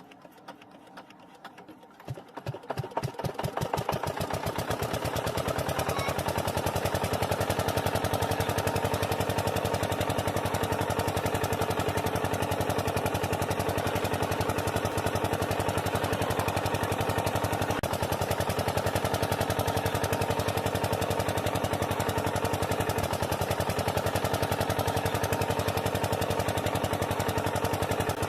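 Small engine-driven water pump starting up about two seconds in and then running steadily with a rapid, even pulse.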